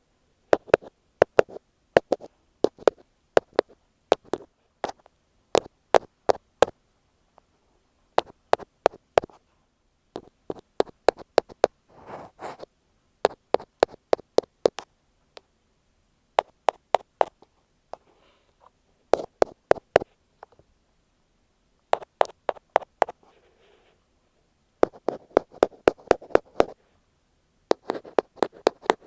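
Ear pick tapping directly on an earphone microphone: quick runs of sharp taps lasting a second or two each, separated by short pauses. A few brief stretches of softer rubbing come between the runs.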